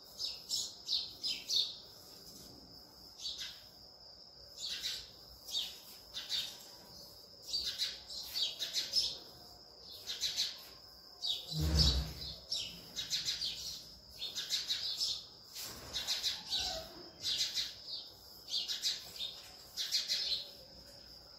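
Small birds chirping in quick high clusters, over and over, over a thin steady high-pitched tone. One dull thump a little past the middle.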